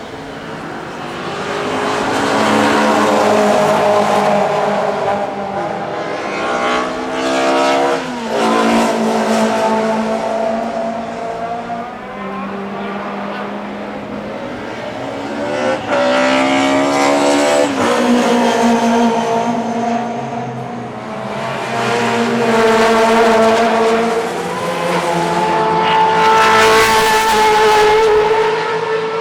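Classic DTM touring cars racing past, several engines running hard at once and swelling and fading as they pass. The pitch climbs steeply as cars accelerate, about eight seconds in and again around sixteen seconds.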